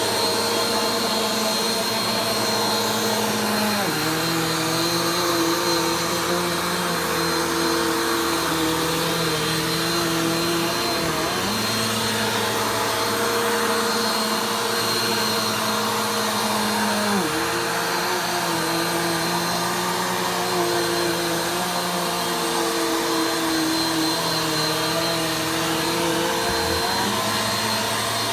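Vacuum cleaner running steadily, its motor note stepping down and back up in pitch every several seconds as the load on it changes during slow passes.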